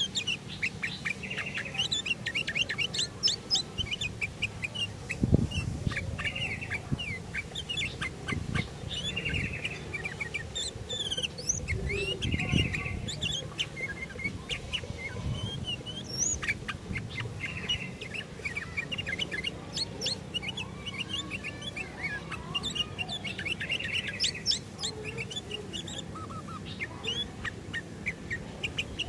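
Sooty-headed bulbul (kutilang) calling and singing: a steady run of short, bright chirps and warbled phrases, with a few low thuds in the background.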